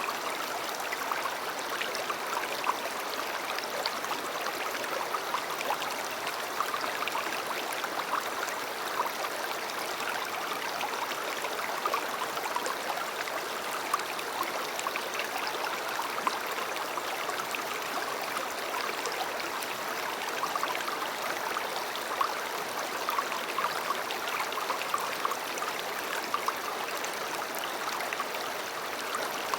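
A river running steadily: an even rush of flowing water with many small splashes and bubbles through it.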